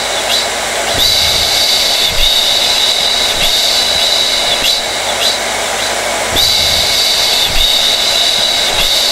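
Hair dryer running steadily: a rushing blast of air with a high whistling whine that wavers briefly every second or so.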